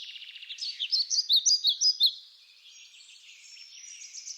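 Birds singing outdoors: a burst of loud, sharp chirps from about half a second to two seconds in, over a steady high trilling chorus that continues after.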